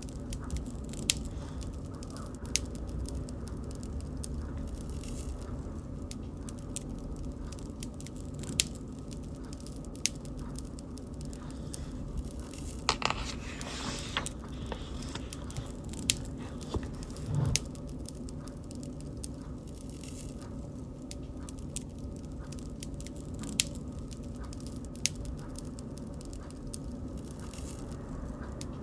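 Bonfire crackling: a steady low rumble from the burning fire with scattered sharp pops and snaps every second or two, and a short flurry of denser crackles about thirteen seconds in.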